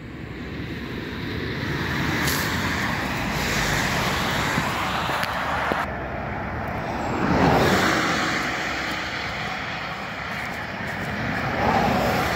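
Road traffic passing on a highway: tyre and engine noise swelling and fading as vehicles go by, one loudest about seven and a half seconds in, another approaching near the end.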